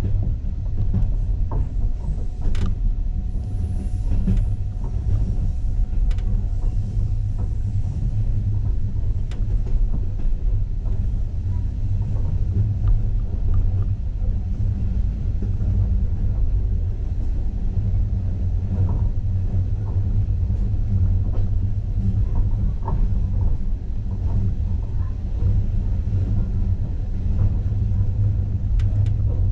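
Steady low rumble of a passenger train running at speed, heard from inside the carriage, with a few sharp clicks scattered through it.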